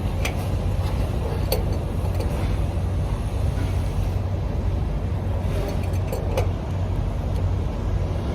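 Semi truck's diesel engine idling with a steady low rumble, with a few light clicks and taps over it.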